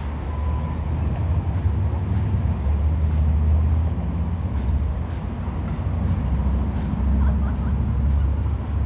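A steady low engine rumble that swells and eases every few seconds.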